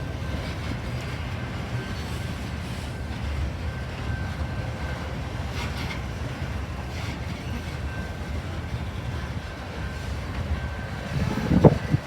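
A train running past with a steady low rumble and a faint steady whine above it, then loud irregular bursts of noise near the end.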